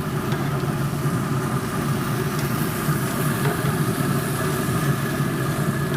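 A steady mechanical hum of a running motor or fan, even and unchanging throughout.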